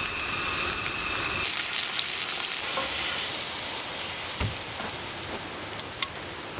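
Steak searing in a hot pan: a steady sizzle with small pops and crackles.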